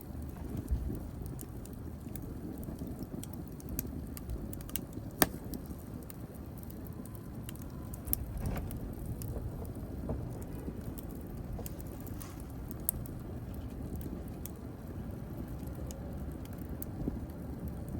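Wood fire burning: a steady low rush of flames with scattered sharp crackles and pops, the loudest pop about five seconds in.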